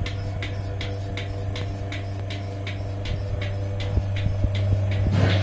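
Single-bucket milking machine running: a steady hum from the vacuum pump with a quick, evenly spaced ticking from the pulsator.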